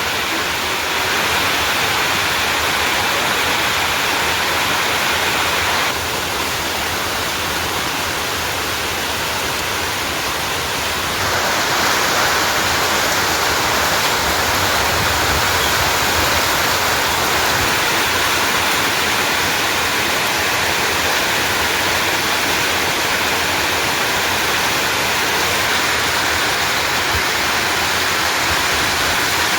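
Heavy rain falling as a steady, dense hiss of water. It drops a little in level about six seconds in and comes back about five seconds later.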